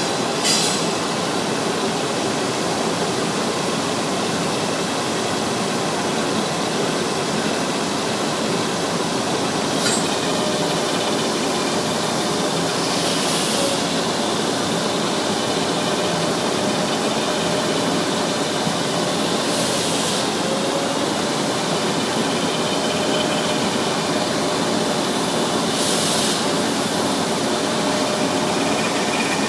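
A propeller sanding machine running steadily, with brief hissing surges every several seconds.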